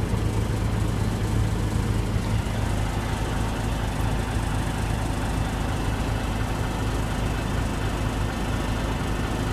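Diesel engine of a 1994 Mack RD690S mixer truck running steadily at idle, with a deep even hum that eases slightly about two and a half seconds in.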